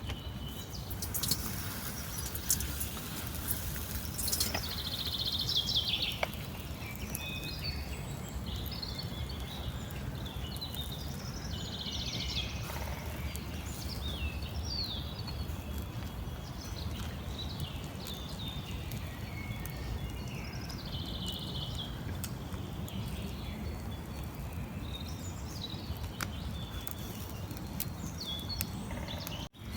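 Small birds chirping and twittering on and off over a steady low background rumble. The sound drops out for a moment just before the end.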